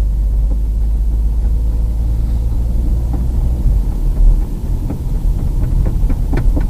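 A Ford Focus running at low speed, with a loud, steady low drone from the right front wheel arch heard from inside the cabin. This is an intermittent abnormal noise that comes on for a while and then goes away; the occupant suspects something is caught or stuck there.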